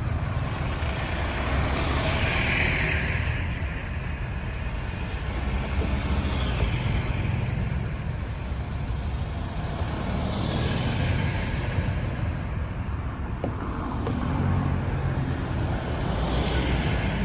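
Road traffic: a steady low rumble of engines and tyres, swelling louder a few times as vehicles go by.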